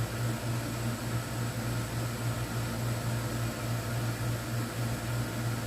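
Air conditioner running: a steady low hum with an even hiss over it.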